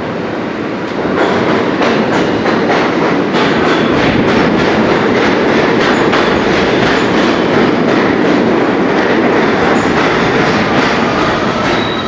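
NYC subway R160 train running through the station, its wheels clattering over rail joints with a steady rumble. It gets louder about a second in.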